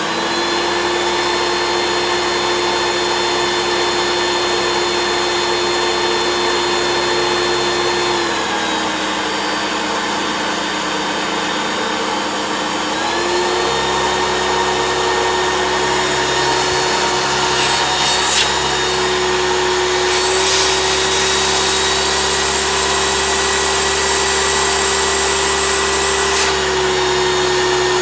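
Hoover Turbopower 3 upright vacuum cleaner running steadily just after being switched on, its motor giving a steady whine. About eight seconds in the pitch drops a little, and it rises back about five seconds later. The motor sounds sweet, and the owner puts the remaining fault down to worn brushroll bearings.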